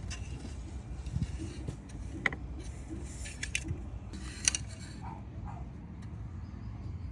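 Scattered light clicks and rattles of parts being handled, over a steady low background rumble. The sharpest clicks come a couple of seconds in and again about four and a half seconds in.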